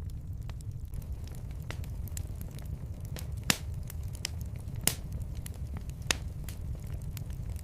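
Fireplace fire crackling, with many small ticks and three louder sharp pops, over a steady low rumble.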